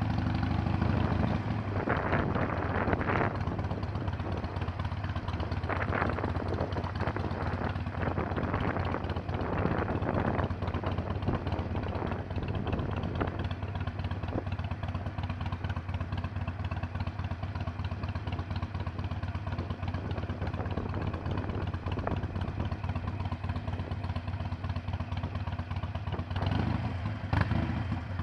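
Harley-Davidson Iron 883's air-cooled V-twin engine running steadily on the move, with a low drone and a few brief noisy surges along the way.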